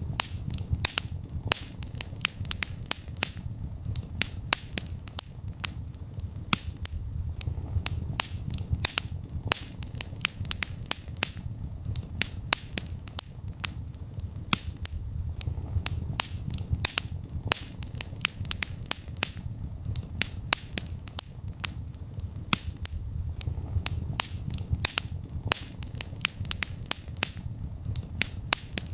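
Wood fire crackling in a fireplace: frequent sharp snaps and pops at an irregular pace over a steady low rumble of the flames.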